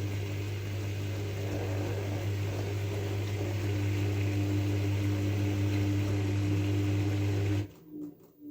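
LG F12A8ND washing machine's drain pump running with a steady hum and water noise, cutting off abruptly near the end, followed by a few faint clicks.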